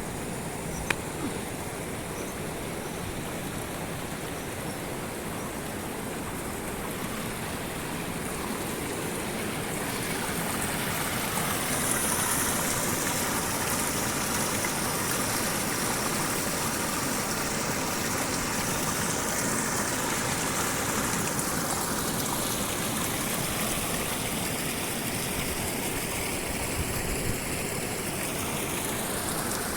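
Rushing water of a waterfall and its stream, a steady noise that grows louder about ten seconds in.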